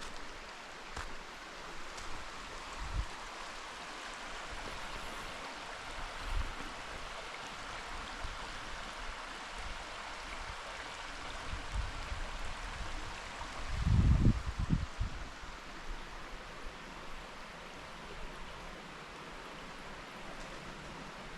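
Steady rushing forest ambience with a few dull low thumps, the loudest about two-thirds of the way through.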